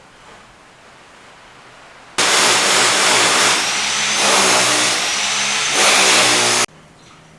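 Loud machine running for about four seconds, with a low hum under a noisy rush and a faint high whine, starting and cutting off abruptly.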